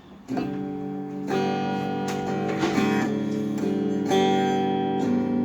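Guitar strummed with the fingers: a chord struck about once a second and left ringing between strokes.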